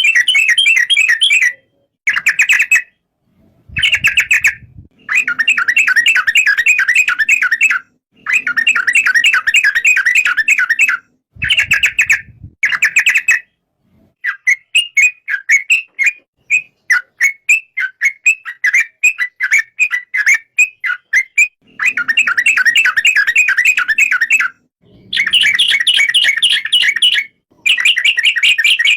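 Yellow-vented bulbul (trucukan) singing. It gives repeated bouts of rapid, bubbling chattering notes, each a second to a few seconds long, with short silent gaps between them. Through the middle stretch the notes come singly, about two a second.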